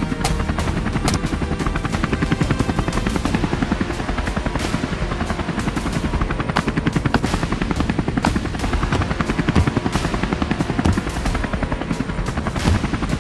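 Helicopter rotor chop, a fast steady thudding pulse, with a few sharp cracks over it.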